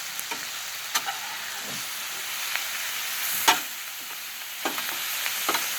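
Mushrooms, onions and zucchini sizzling on a Blackstone flat-top griddle, a steady hiss, with a few sharp clicks of a metal spatula against the griddle top as the food is turned. The loudest click is about three and a half seconds in.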